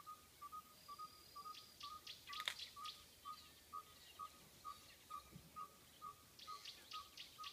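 Faint birdsong: a short note repeated steadily about twice a second, with scattered higher chirps and a single sharp click about two and a half seconds in.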